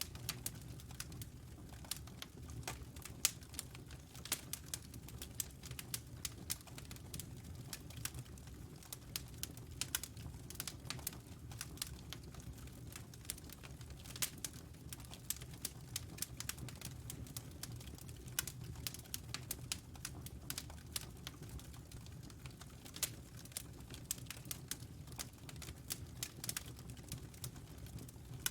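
Wood fire in a fireplace crackling, with many irregular sharp snaps and pops over a steady low rumble of the flames.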